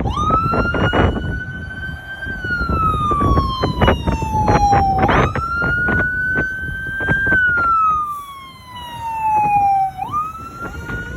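Fire engine's siren wailing: each cycle sweeps up quickly and then glides slowly down, about every five seconds, over the truck's engine and road rumble. Near the end a second, lower-pitched siren joins.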